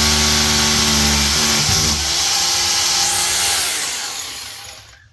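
A power tool running at full speed with a steady motor pitch and a hissing edge. The pitch shifts slightly about two seconds in, then the tool winds down and stops near the end.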